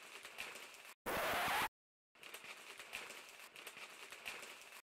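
Crackly scratching and rustling foley for cat paws and claws gripping tree bark as it climbs, a dense run of small ticks. It is broken about a second in by a short, much louder rushing noise lasting under a second.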